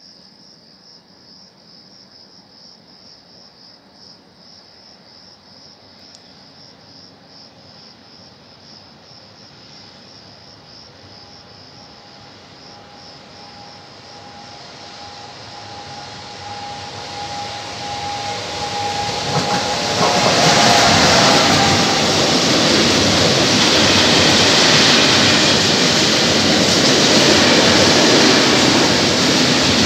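Crickets chirping faintly over a quiet background while a freight train approaches, growing steadily louder from about halfway through. It then rushes past at speed, and the rumble and clatter of its container wagons fill the last ten seconds.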